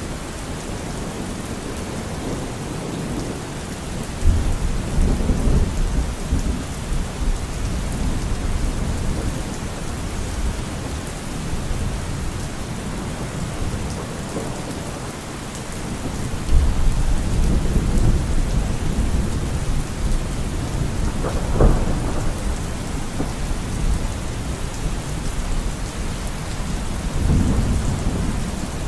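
Steady rain falling, with rolls of thunder rumbling low about four seconds in and again at about sixteen seconds, a sharper crack of thunder a few seconds later, and another rumble near the end.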